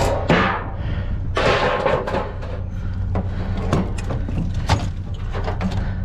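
Junk being rummaged through and handled: a run of sharp knocks and clanks with two short bursts of rustling and scraping, about the start and about a second and a half in, over a steady low hum.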